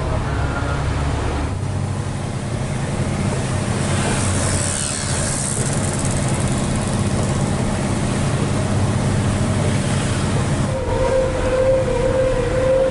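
Hino 500 FM320TI tractor unit's diesel engine running under load, a steady low drone heard inside the cab. A hissing rush swells and fades a few seconds in, and a steady higher tone joins near the end.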